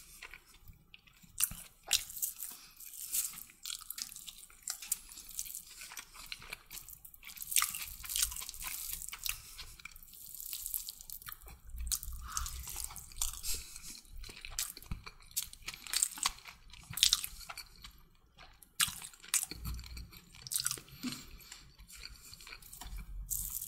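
Close-up eating sounds of someone chewing chicken kottu: irregular wet mouth clicks and soft crunches.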